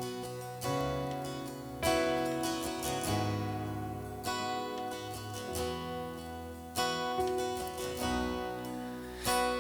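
Acoustic guitar chords strummed and left to ring, a new chord about every second, in an instrumental passage of a worship song with no singing.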